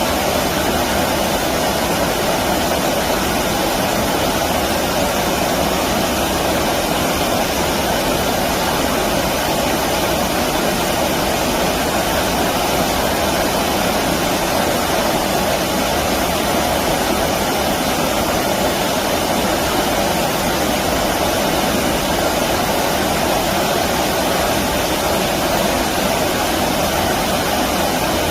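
Stream water rushing in a constant, even flow, with no breaks or separate splashes.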